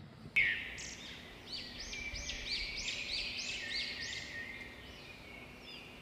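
Songbird chirping: a quick run of high, rising-and-falling chirps, about three a second, that starts suddenly and fades out near the end.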